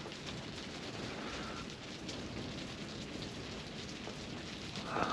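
Steady pattering hiss of rain on an ice-fishing shack, with scattered drop ticks. A short tonal sound rises briefly right at the end.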